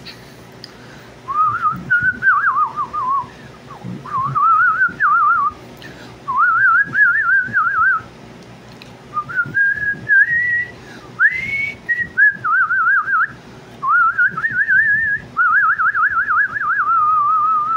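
A man whistling a warbling, bird-like tune with no accompaniment: about eight short phrases, each with rapid trills, separated by brief pauses.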